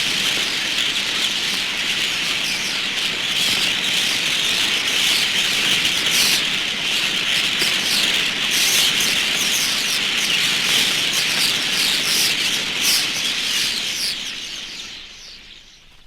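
Thousands of common starlings chattering as they settle into a winter roost: a dense, unbroken mass of chirps and whistles from many birds at once. It fades out near the end.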